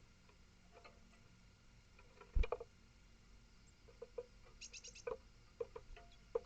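Small animal moving and feeding on a wooden bird table: scattered light taps and clicks, with one louder knock about two and a half seconds in and a quick run of four high pips a little past the middle.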